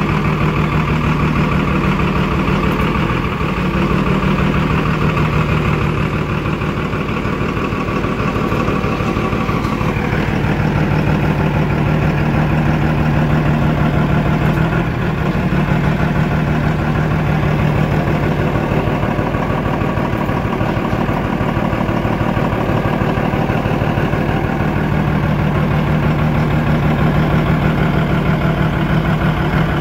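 Twin-turbo Cummins diesel engine idling steadily with an even, rapid firing pulse; its tone shifts slightly about ten seconds in.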